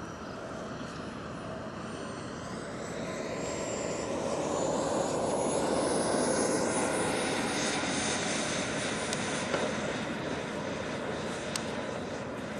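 Small turbine engine of a radio-controlled Rookie sport jet running, a rushing noise with a high whine that climbs in pitch and gets louder over the first few seconds, loudest about halfway through, then eases slightly as the jet comes in to land.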